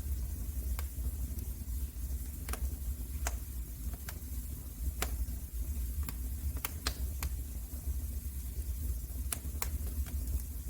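Wood fire crackling in a fireplace: irregular sharp pops and snaps, about a dozen, over a steady low rumble.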